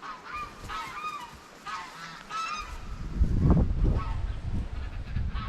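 Domestic geese honking in repeated short calls. About two and a half seconds in, a loud low rumble of wind buffeting the microphone comes in over them and stays the loudest sound.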